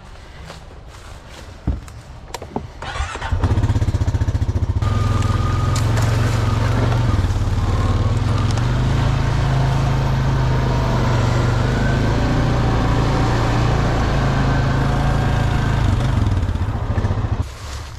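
Small motor-vehicle engine started about three seconds in, then running steadily at low revs with small changes in speed, and dropping away near the end.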